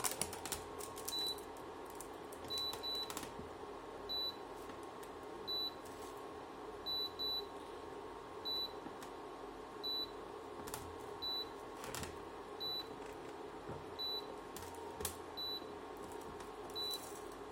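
Induction cooktop giving short high beeps about every second and a half, some in quick pairs, over a steady low hum, with a few clicks. It is repeatedly trying to detect cookware and failing to detect the metal sheet on it: the warped housing holds the induction coil too far from the glass.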